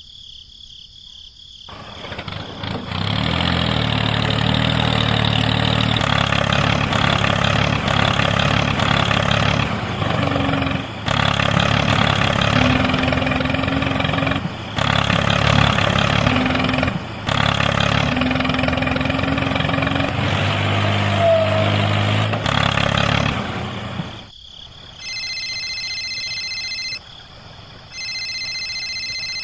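A motor running steadily for about twenty seconds, with a few brief drops in level, then stopping. Near the end come two short spells of a steady high electronic beep.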